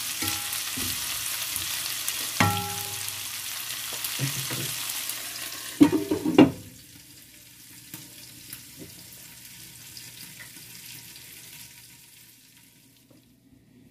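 Chicken feet sizzling as they are sautéed in oil in a metal pan, with a spatula scraping and knocking against the pan. About six seconds in, a glass lid clatters on, and the sizzling goes muffled and much quieter, fading near the end.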